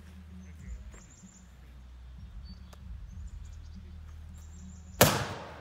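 A steady low hum of an idling truck engine, with faint bird chirps high above it. About five seconds in comes a sudden loud burst of noise that fades within half a second.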